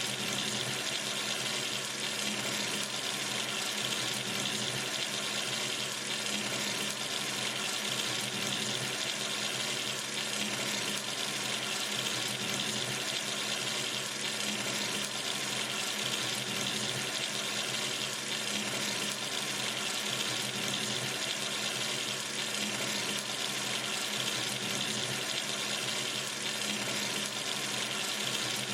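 Water running steadily from a tap into a sink, an even hiss with no change.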